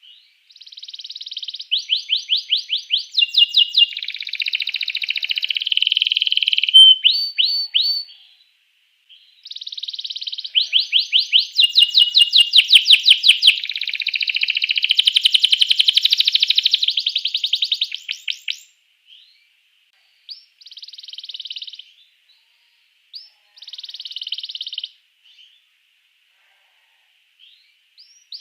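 Domestic canary singing: two long song phrases made of rapid trills, each lasting several seconds, followed by a few short, broken bursts of song in the second half.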